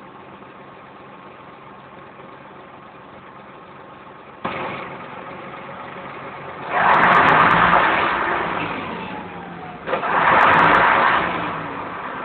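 A car engine starts about halfway through, with a sudden jump from a low hum. It is then revved twice, each rev rising and falling away, and settles back to a steady idle.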